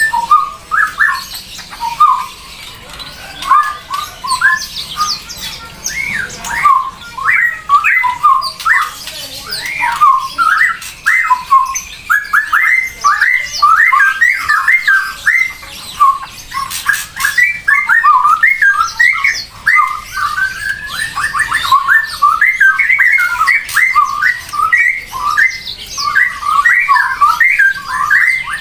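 Bird calls: a near-continuous stream of short, quick notes, many of them rising in pitch.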